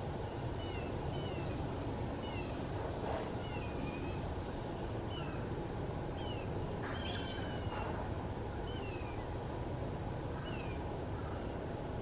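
A bird repeatedly giving short notes that slide down in pitch, about one a second, with one fuller, more complex call about seven seconds in, over a steady low background rumble.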